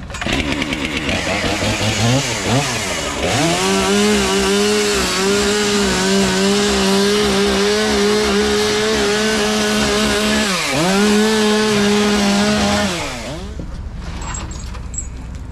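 Two-stroke gas-powered saw brought up to full throttle about three seconds in and held high while cutting, its pitch dipping briefly once near eleven seconds as it loads in the cut, then dropping off near thirteen seconds.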